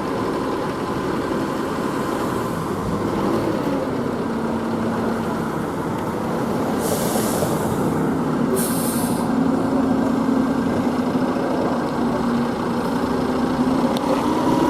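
Fire engine's diesel engine running steadily, its pitch dropping about four seconds in. Two short hisses of air brakes come about seven and eight and a half seconds in.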